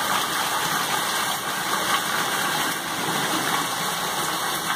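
Rainwater rushing in a steady, even noise.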